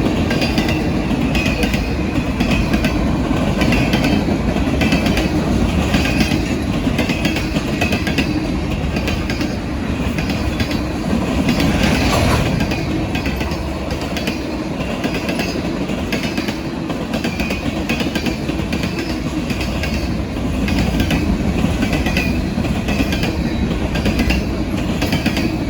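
Norfolk Southern freight train rolling past at close range, a steady rumble of wagons with a constant patter of wheel clicks over the rail, swelling briefly about halfway through.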